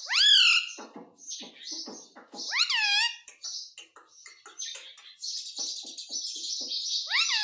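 Indian ringneck parrot calling: three loud calls that rise and then fall in pitch, at the start, about two and a half seconds in and near the end, with short chattering syllables and a hissy stretch between them.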